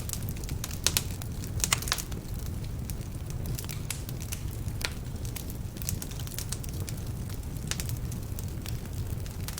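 Wood fire burning in a fireplace: a steady low rumble of flames with scattered sharp crackles, a cluster of them about a second or two in. The crackling comes from logs that are still a bit damp.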